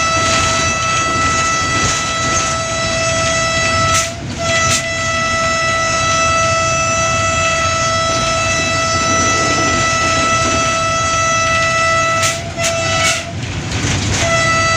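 Diesel locomotive horn sounding long, steady blasts, broken by two short gaps, about four seconds in and about twelve seconds in. Under it runs the rumble and clatter of the train passing at speed.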